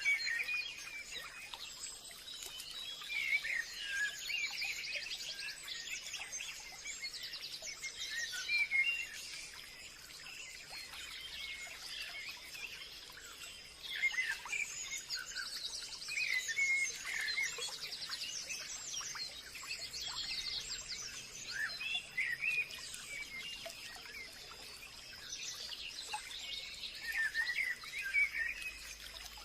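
Forest ambience of several birds calling and chirping, with a steady high insect-like hum underneath.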